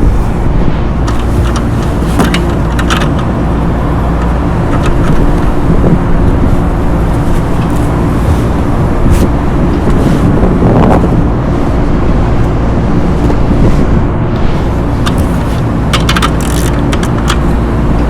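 Steady low mechanical drone of running rooftop HVAC equipment. Scattered short clicks and scrapes come from handling the exhaust fan's housing, with a cluster near the end.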